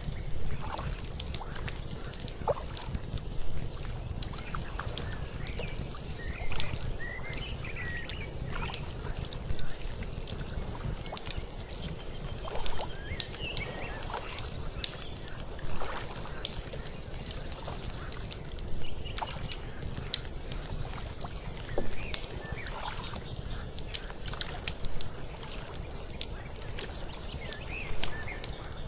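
Layered lakeside night ambience: water lapping under a low steady rumble, a fire crackling with scattered sharp snaps, and short bird calls here and there. The water sound swells every few seconds.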